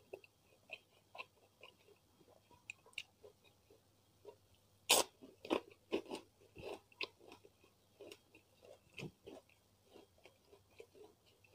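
Close-miked chewing of a hand-fed mouthful of rice and beef rendang: a run of short, crunchy clicks and crackles, loudest about five seconds in.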